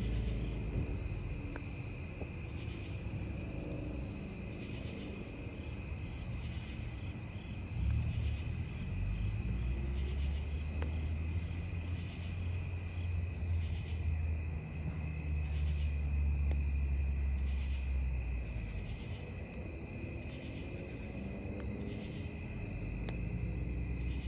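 Crickets chirping steadily in a high, unbroken trill over a wood campfire, with a few faint crackles of burning wood. A low rumble swells in the middle and eases off again.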